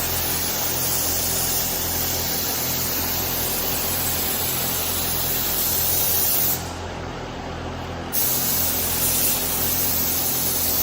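Spray gun hissing steadily as it lays clear coat on a helicopter's belly, over a steady low hum. About six and a half seconds in, the hiss breaks off for a second and a half, then starts again.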